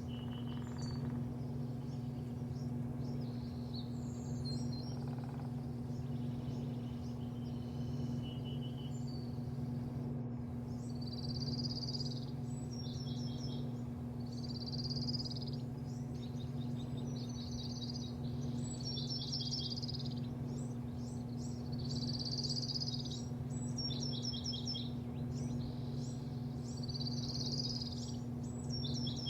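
Birds calling repeatedly in quick clusters of short chirps, more often in the second half, over a steady low machine hum.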